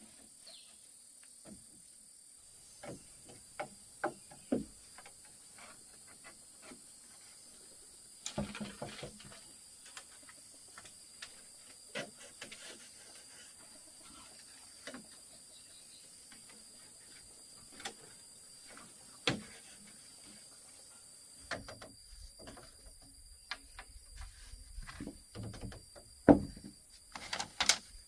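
Scattered, irregular knocks and clicks, growing busier in the last few seconds with one sharp loud knock near the end, over a faint steady high-pitched hiss.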